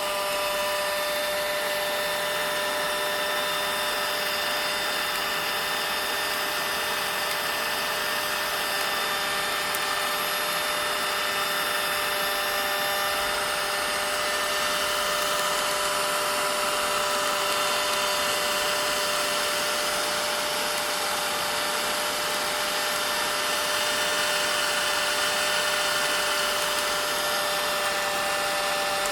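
Vacuum cleaner running steadily: a constant motor whine over a rush of air, with no change in speed.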